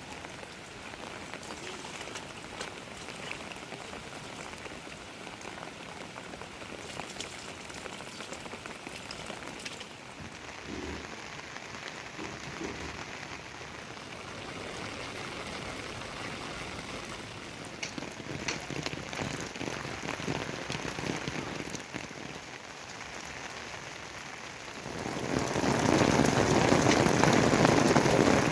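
Steady rain falling on surfaces, with scattered drop ticks; about 25 seconds in it grows much louder and stays so.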